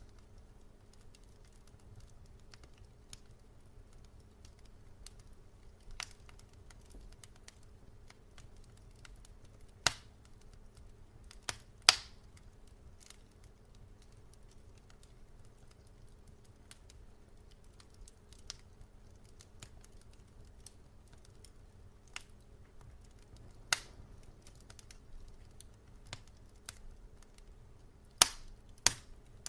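Wood fire crackling: scattered sharp pops and snaps at irregular intervals, a few loud ones standing out, over a faint low hum.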